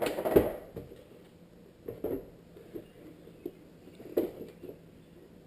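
A handful of light clicks and knocks, scattered irregularly about a second apart, from plastic headlight housing and projector parts being handled and fitted. The strongest come just after the start and about four seconds in.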